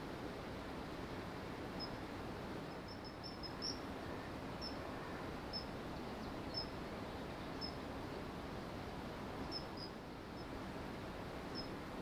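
Short, high bird call notes, coming irregularly about once a second with a quick run of them a few seconds in, over a steady background hiss.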